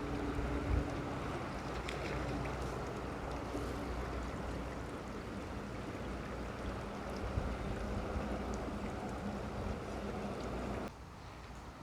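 Outdoor pond-side ambience: a steady rushing noise with a low rumble, which drops away abruptly near the end.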